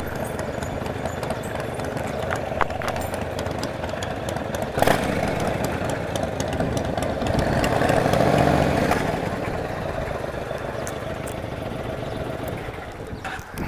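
Motorcycle engine running at low speed, swelling louder for a couple of seconds about eight seconds in, with a few brief knocks.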